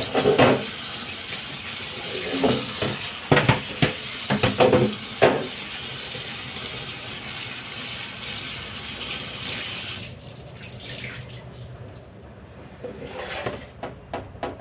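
Tap water running into a sink while things are rinsed under it, with several sharp knocks of items against the sink in the first few seconds. The water stops about ten seconds in.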